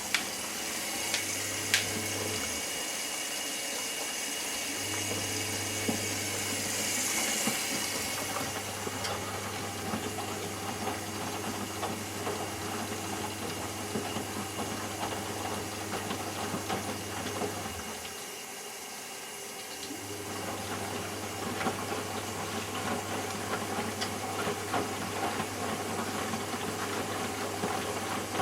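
Eudora Sparmeister 702 Classic washing machine in its rinse cycle: water running in with a hiss and sloshing while the drum motor hums, tumbling the wet laundry with light knocks. The motor hum stops briefly twice, the drum pausing between turns.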